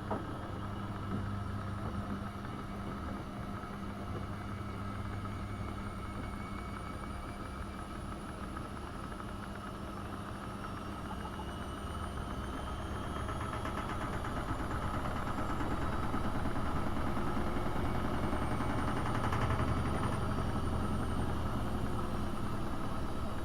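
AEG Öko-Lavamat 72520 washing machine running with a steady motor hum. About halfway through, the drum speeds up: a faint rising whine climbs and the machine grows louder, as when it moves into a spin.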